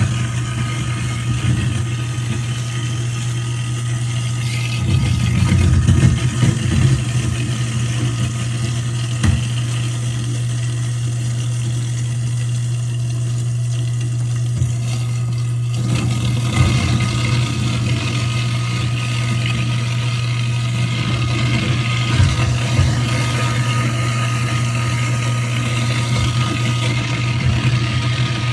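InSinkErator garbage disposal running, with a steady motor hum and irregular rough grinding as food is chewed up. A brighter hiss joins about halfway through.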